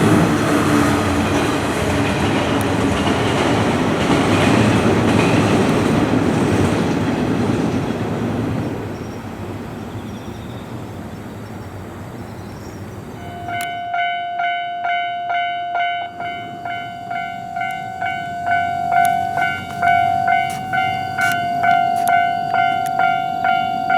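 A train runs past on the line, its rumble fading away over the first several seconds. About thirteen seconds in, a railway level-crossing warning bell starts, ringing in a steady, evenly repeating electronic ding.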